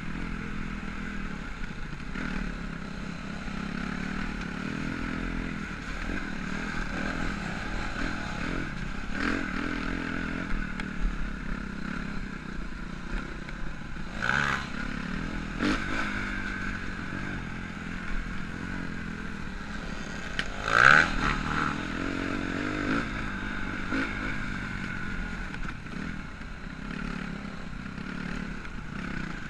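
Motocross bike engine running, its pitch rising and falling as the throttle opens and closes, with a few sharp knocks, the loudest about 21 seconds in.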